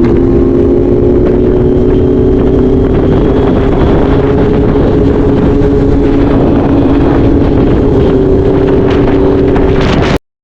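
Motorcycle engine running at a steady, loud cruise with a low rumble beneath it, cutting off abruptly near the end.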